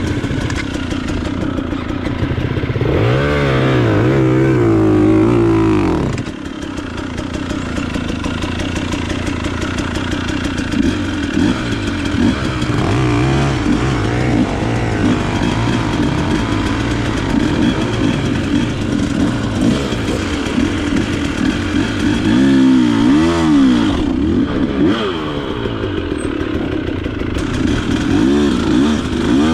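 Enduro motorcycle engine running off-road and revved up and down repeatedly. The strongest surges come a few seconds in, ending abruptly after about six seconds, and again near the end.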